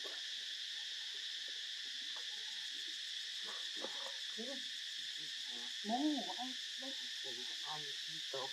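Steady high insect drone of crickets or cicadas, with faint scattered calls underneath and one louder, briefly arching call about six seconds in.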